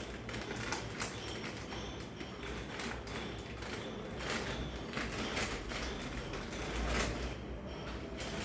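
Irregular light clicks and knocks of hands and tools working on a refrigerator's parts, over a low hum.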